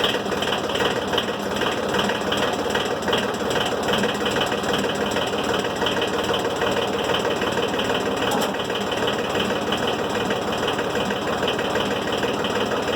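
Diesel engine of a Timberking 1400 sawmill idling steadily just after a cold start, its glow plugs having been run because of the chill.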